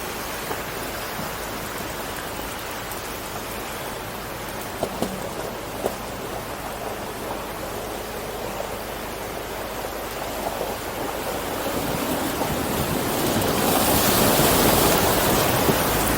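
Steady rushing water noise that swells louder about twelve seconds in, with a couple of short knocks near the middle.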